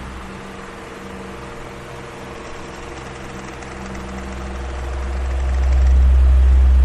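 Electric fan running steadily: a motor hum over a rush of air, with a low airflow rumble that drops away early and swells back up about five seconds in.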